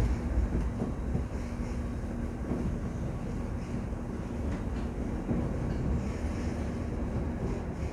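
Steady low rumble of a moving vehicle, with a faint steady hum running through it.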